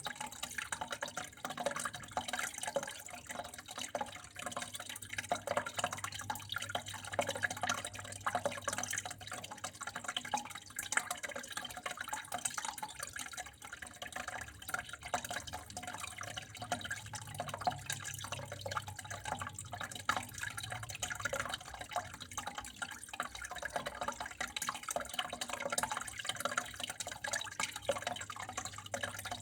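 Water flowing and dripping steadily, a dense patter of small drops and splashes, with a faint steady low hum underneath.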